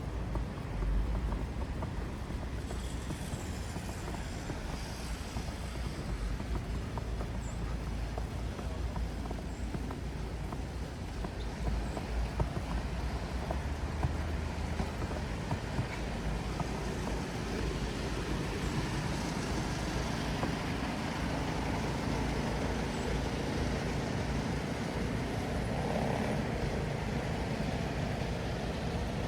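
Steady downtown street traffic: a low rumble of passing cars, growing fuller through the second half.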